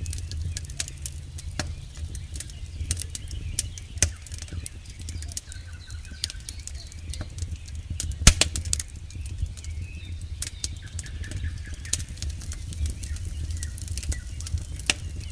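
Campfire crackling: irregular sharp pops and snaps from burning wood, the loudest about eight seconds in, over a steady low rumble.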